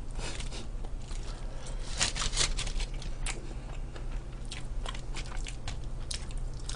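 Someone chewing food, with irregular short wet clicks from the mouth, a cluster of them about two seconds in.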